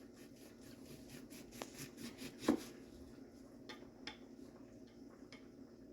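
Faint, scattered taps and knocks of a kitchen knife on a cutting board during slicing, with one louder knock about two and a half seconds in.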